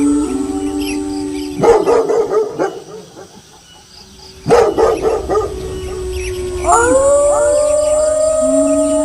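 Several wolves howling together in long held tones, broken by two sudden bursts of dog barking about a second and a half and four and a half seconds in. A new chorus of rising howls starts near the end.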